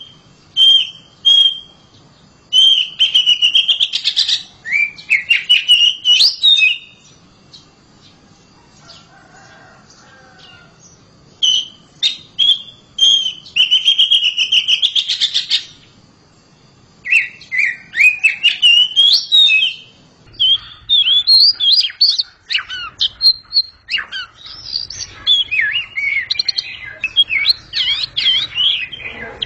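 Oriental magpie-robin (kacer) singing loudly in varied whistled phrases and quick chattering notes, pausing for a few seconds near the middle before singing almost without a break through the last third.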